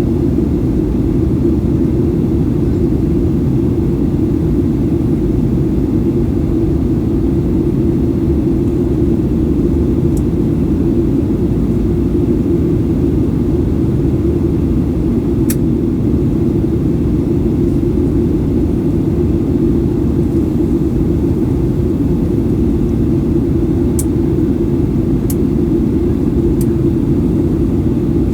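Steady cabin noise aboard a Boeing 737-800 airliner: a constant low drone of engines and airflow, with a few faint clicks about ten seconds in and again near the end.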